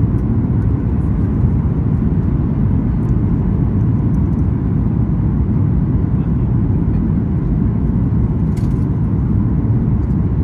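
Steady low rumble of a Boeing 737-8 MAX's CFM LEAP-1B engines and airflow heard inside the economy cabin, unchanging throughout, with one faint click near the end.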